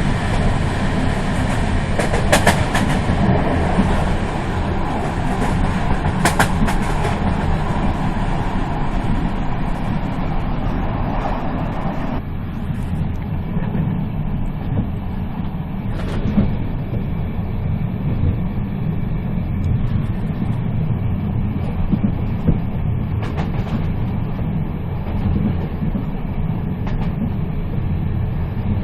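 Moving train running with a steady low rumble and a haze of rail noise, with a few sharp clicks, two of them near the start about four seconds apart and one in the middle. About twelve seconds in the brighter hiss drops away and the rumble goes on.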